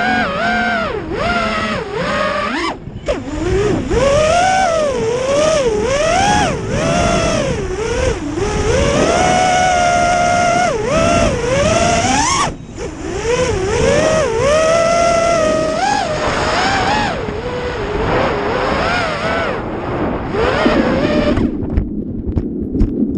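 FPV quadcopter's brushless motors whining, their pitch swooping up and down with the throttle and cutting out briefly twice. Near the end the whine gives way to a lower, rougher noise with clicks.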